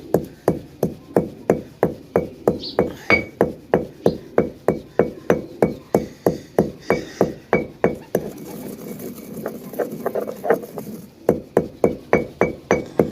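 Fennel seeds being pounded with a pestle in a mortar: steady, even strikes about four a second, each with a short ringing clink. About two-thirds of the way through the strikes turn softer for a few seconds with a rubbing, grinding sound, then the even pounding resumes.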